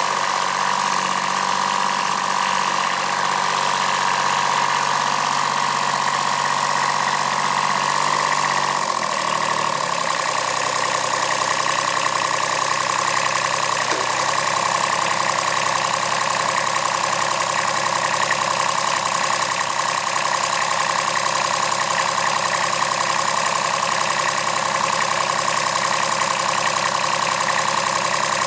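Kubota B7001 tractor's D850 three-cylinder diesel engine running steadily. About nine seconds in, its note drops to a lower, steady pitch.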